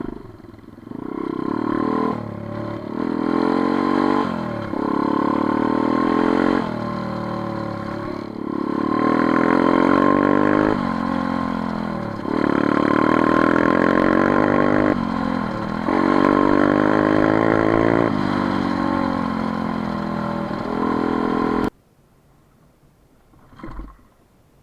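Motorcycle engine running hard, its revs climbing and dropping sharply again and again. The sound cuts off suddenly near the end, leaving quiet with one faint knock.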